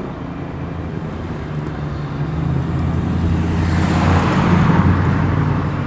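A car's engine running as it drives slowly out past the listener. It gets louder and rougher from about three seconds in as the car draws nearer, then eases off.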